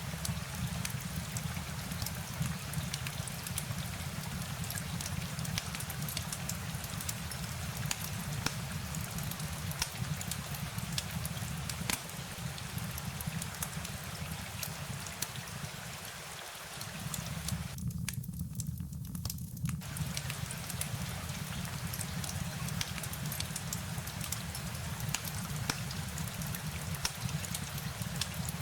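Steady rain, an even hiss dotted with many sharp drop ticks over a low rumble. The low rumble drops out briefly a little past halfway, and the hiss dips for about two seconds soon after.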